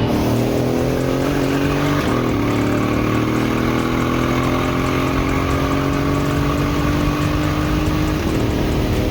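Car engine at full throttle accelerating hard, pitch rising steadily through the gears, with quick upshifts about two seconds in and again near the end.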